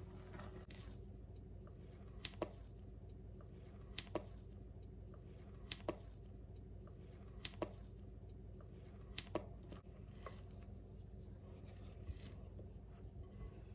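About five sharp knocks at even spacing, a little under two seconds apart, over a faint steady low hum.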